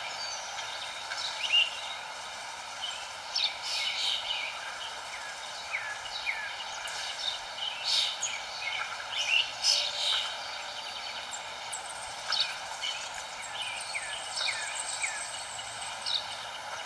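Several small birds chirping in overlapping short, quick calls and falling notes over a steady background hiss. A thin, high note is held for a few seconds near the end.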